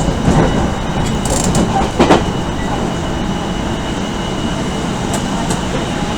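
Cabin running noise of an Odakyu 1000 series electric train at speed: a steady rumble of wheels on rail with a faint constant high tone, and one sharp clack about two seconds in.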